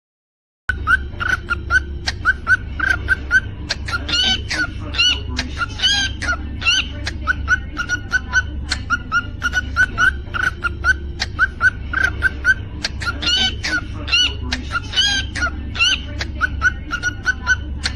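Cockatiel chirping in a quick, even series of short notes, several a second, breaking into louder, higher calls around 4 seconds in and again around 13 seconds in. A steady low hum runs underneath. The sound starts abruptly just under a second in.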